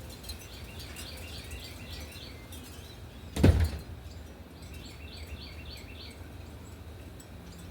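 A songbird calling in two runs of rapid, evenly repeated chirps, the second starting about five seconds in. A single loud, low thump about three and a half seconds in, over a steady low outdoor rumble.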